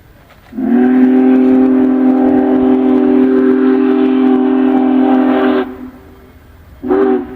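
Union Pacific Big Boy 4014 steam locomotive's whistle: one long, loud, steady blast of several tones sounding together, lasting about five seconds, then a short blast near the end.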